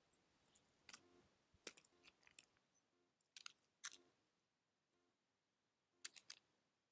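Faint, sharp clicks and cracks in four short clusters: an animal feeding, gnawing and cracking food at a feeding place.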